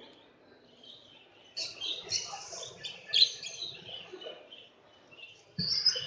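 Caged birds chirping and twittering in short high calls. The calls start about one and a half seconds in, and there is a brief bump near the end.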